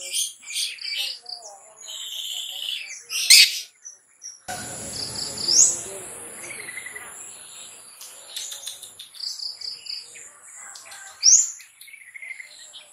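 Long-tailed shrike (cendet) singing a varied song of quick chirps, short rattling note runs and a few sharp upward-sweeping calls. A steady high thin tone and a soft hiss sit behind it from about halfway through.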